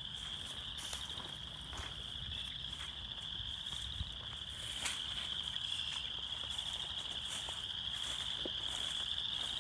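Dense chorus of spring peepers calling from a pool, blending into a steady high-pitched ringing, with a few faint clicks.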